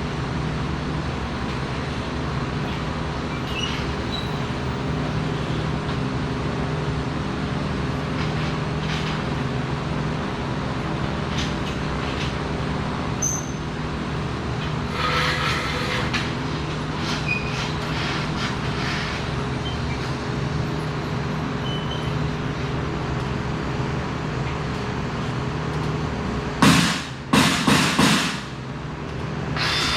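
Steady hum of workshop machinery on a welding competition floor, with faint ticks and clanks. Near the end come three short, loud rushing noises.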